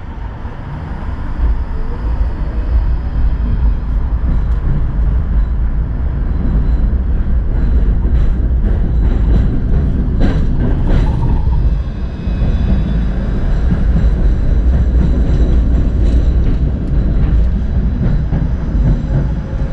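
Tram running along its tracks: a steady low rumble that builds over the first couple of seconds, with a scattering of clicks and knocks from the wheels and running gear about halfway through and again near the end.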